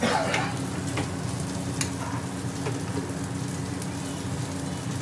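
Chicken sizzling as it sears in a hot griddle pan on a gas range, with a louder burst of sizzle right at the start and a few light clicks of utensils. A steady low hum runs underneath.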